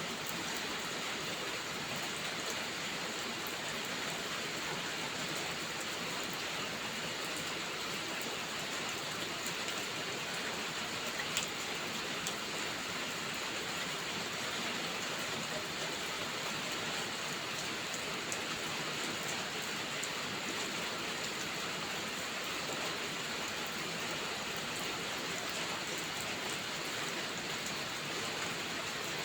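Steady rain: an even hiss of rainfall with scattered drop ticks, and one sharper tick about eleven seconds in.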